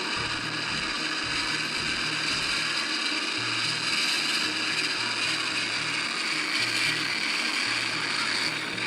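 Helicopter flying overhead: a steady engine whine with a dense mechanical rattle, a little louder about four seconds in.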